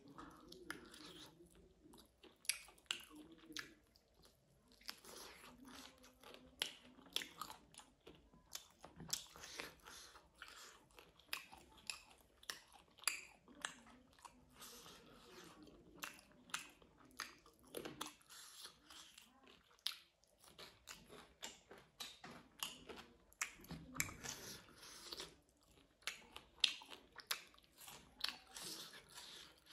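A person chewing and eating close to the microphone: many quick, irregular wet clicks and mouth smacks with short pauses between them.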